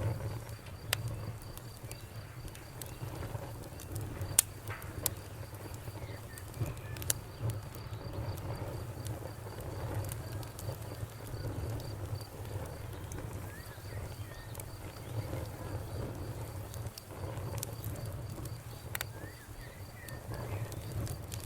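Campfire crackling, with sharp pops here and there over a low, steady rush of burning. A cricket chirps in a steady, even high-pitched series behind it.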